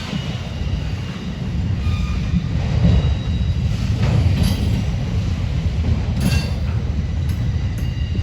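Freight cars of a Norfolk Southern manifest train rolling past with a steady low rumble, brief high wheel squeals that come and go, and a few sharp clicks from the wheels.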